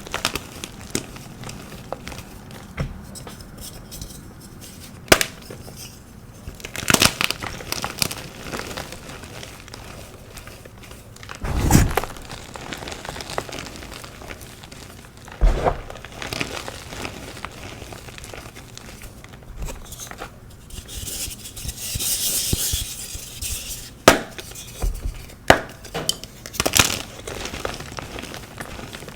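Dyed pasted gym chalk blocks being crunched and broken, with sharp crunches and snaps at irregular intervals and a longer stretch of crumbling about two-thirds of the way in.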